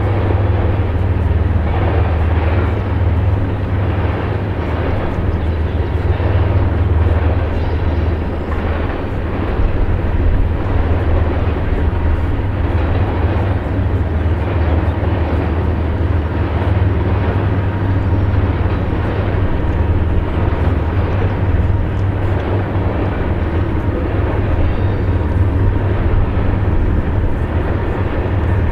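Steady low rumble of BNSF diesel freight locomotives heard from across a wide river.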